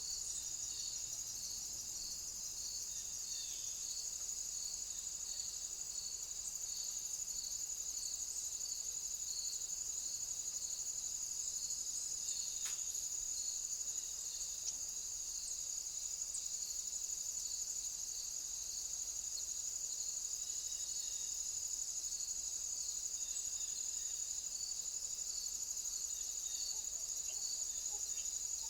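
Crickets chirping: a steady high-pitched trill, with a second call pulsing regularly at about one and a half pulses a second beneath it.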